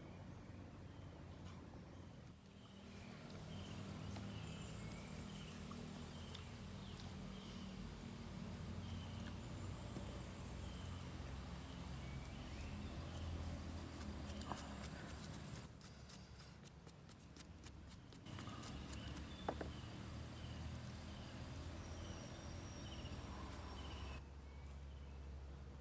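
Insects droning steadily at a high pitch, breaking off abruptly for about two seconds midway and again near the end, with small repeated chirps and a couple of faint clicks underneath.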